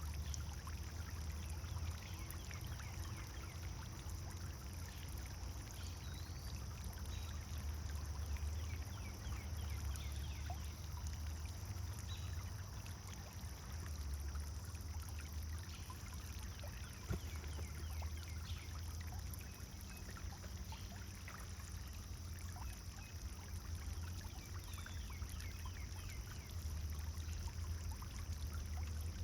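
Pond fountain water splashing and trickling steadily, with a low rumble under it.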